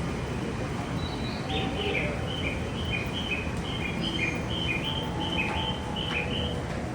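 Birdlike chirping: a quick two-note call, high then a little lower, repeated about twice a second for several seconds, over a steady background rumble.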